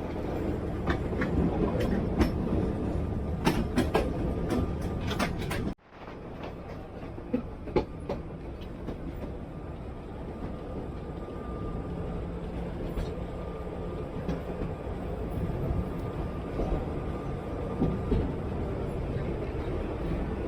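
A vintage wooden electric tram running along its rails, with a steady rumble and a clatter of sharp rail clicks and rattles. The sound cuts out suddenly for a moment about six seconds in, then the run carries on more evenly.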